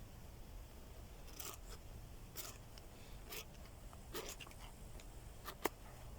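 Hand-handling noises: a few brief scrapes and rustles about a second apart, then one sharp click near the end.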